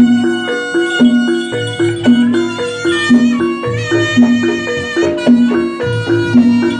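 Live Javanese jaranan music: a repeating melodic figure of clear pitched notes over a pulsing bass pattern.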